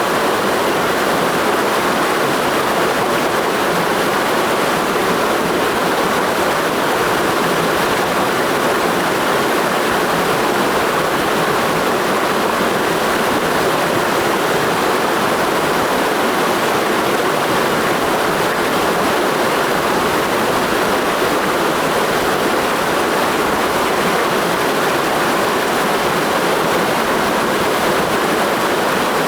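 Clear mountain stream rushing steadily over rocks in a ravine, a constant loud roar of water.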